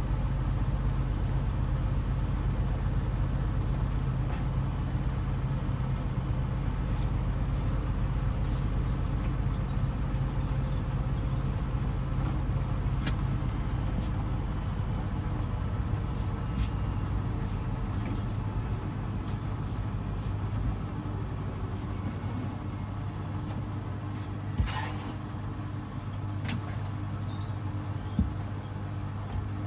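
Hoover DXOA610AHFN-80 washing machine running on a 60 °C Mixed programme, a steady low motor hum that settles a little lower a little past halfway. A few light clicks or knocks come near the end.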